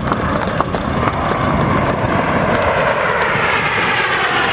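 Red Arrows BAE Hawk jets flying past in formation: a steady jet roar whose pitch bands sweep downward in the second half as the aircraft pass over.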